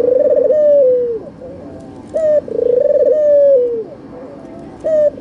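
Albino ringneck dove (white puter) cooing: a short higher note followed by a long rolling coo that drops in pitch at the end, repeated about every two and a half seconds, with two full coos and the start of a third.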